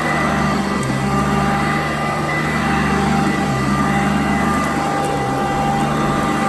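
Sanitaire vacuum cleaner running steadily on carpet: a constant motor hum with a high whine over it, the low part of the hum shifting slightly in pitch every couple of seconds.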